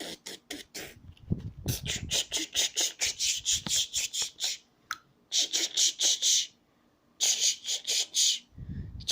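Rapid rasping or scratching strokes, about five or six a second, in three runs with short pauses between them.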